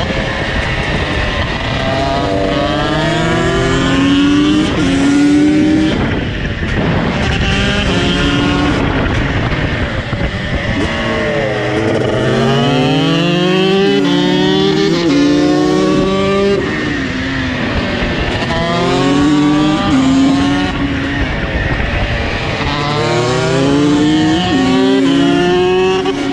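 KTM two-stroke supermoto engine accelerating hard through the gears: the pitch climbs, drops sharply at each upshift and climbs again. This happens in several runs, with short easings off the throttle between them.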